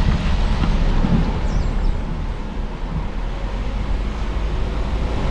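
A car driving along: a steady low rumble of engine and tyres on the road.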